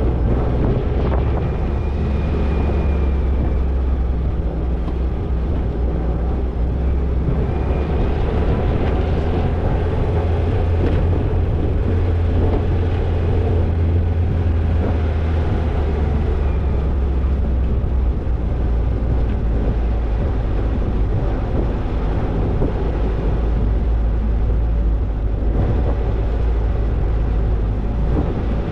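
Toyota Tercel 4WD wagon driving along an off-road trail: its engine runs with a steady, unbroken low drone.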